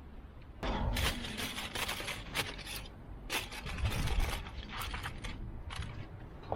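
Rustling, crinkling and scraping of camp gear being handled to set up a small campfire: a run of irregular clicks and scrapes starting about half a second in.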